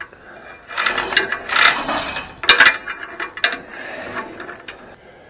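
Metal-on-metal clanking, rattling and scraping with several sharp clicks as an engine is worked into position on its mount.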